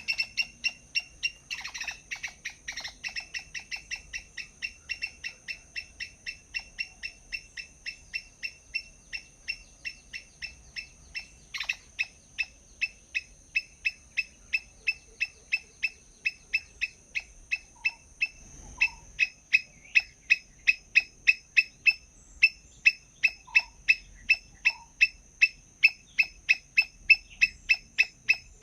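A bird calling the same sharp, falling chirp over and over, about three times a second without a break, louder in the second half. A faint steady high whine runs underneath.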